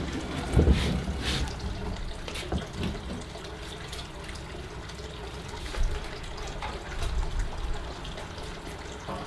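Water running from a tap and splashing into a sink or basin, with a few knocks of something being handled in it.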